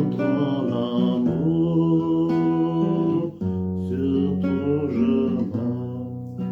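A man singing a French song to his own acoustic guitar accompaniment.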